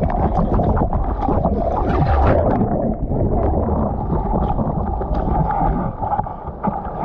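Water splashing and sloshing close to a GoPro's microphone while surfing, with many small splashes and knocks.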